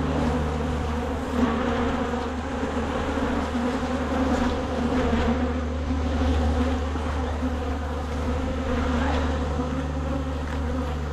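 A mass of honeybees buzzing steadily around an opened hive: an even, continuous drone.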